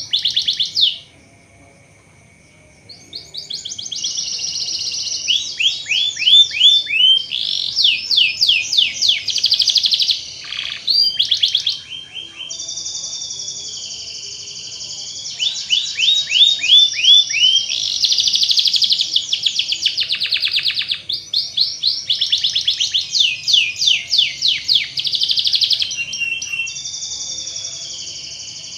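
Domestic canary singing long rapid trills and rolls of quick downward-sweeping notes, used as a lure song to set other canaries singing. The song breaks off about a second in for roughly two seconds, then runs on almost without pause.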